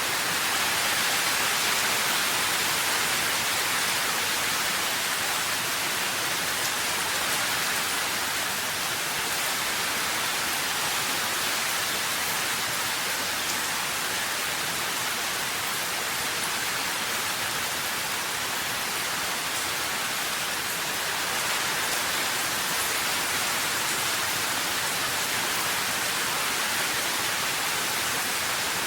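Steady rain: a dense, even hiss of falling rain with faint scattered drop ticks.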